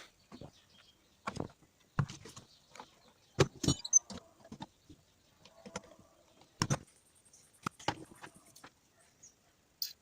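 Irregular knocks and clicks of hand tools and parts being handled while working on a starter motor, with a cluster of sharper knocks about three and a half seconds in and another near seven seconds.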